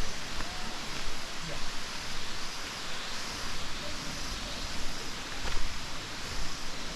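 Steady rushing of water from a waterfall, an even hiss.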